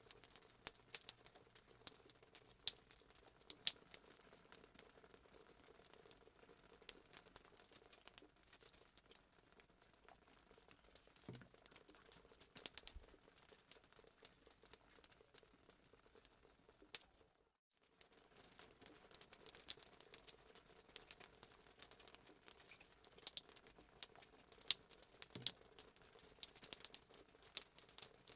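Fireplace sound effect: a wood fire crackling faintly with dense, irregular pops and snaps. It cuts out for a moment about two thirds of the way through.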